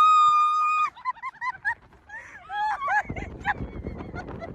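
A mountain-coaster rider screams, one long high held shriek, then breaks into short shrieking laughs. More shrieks come around the middle, and from about three seconds in a low rumbling noise of the ride runs underneath.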